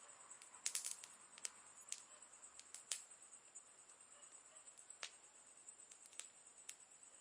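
Campfire crackling: burning wood giving off sparse, irregular snaps and pops, with a quick cluster of pops about a second in, over a faint steady high hiss.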